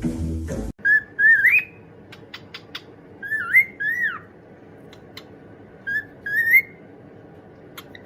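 Short whistled phrases, each a few clear notes swooping up and down, heard three times, with a few sharp clicks between them.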